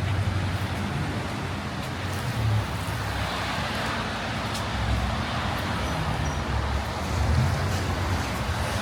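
Steady city street traffic noise, a continuous rumble of passing cars.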